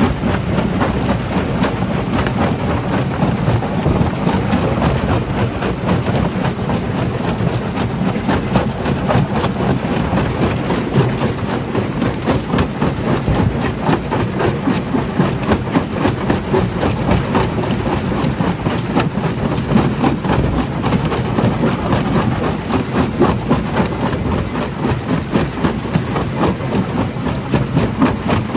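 Stone crusher (primary jaw crusher) running and crushing rock: a steady heavy machinery drone with a dense, irregular clatter of knocks as the stone breaks.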